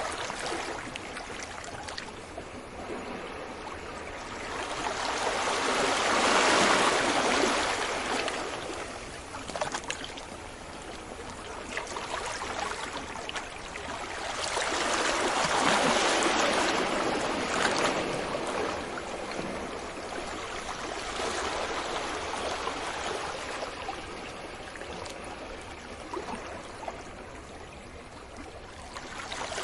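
Ocean waves breaking gently on a beach. Two larger waves swell up and wash in about 6 and 16 seconds in, with a softer continuous wash between them.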